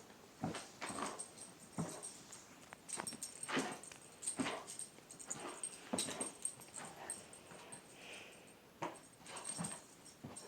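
A puppy playing, making a string of short, irregular noises.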